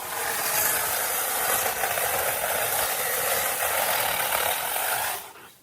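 A small power tool running steadily for about five seconds, then cutting off.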